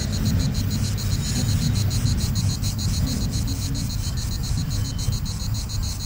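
Diesel suburban train running away along the track, a steady low rumble that slowly fades. Over it, a high-pitched insect chorus pulses evenly several times a second.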